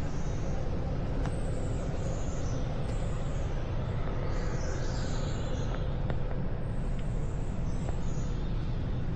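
Outdoor ambience: a steady low rumble, with small birds giving short, high chirps over it, some falling in pitch.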